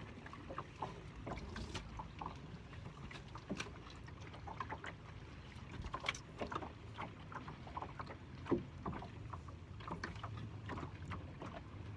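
Small fishing boat on the water: scattered light knocks and taps on the boat over a low steady rumble.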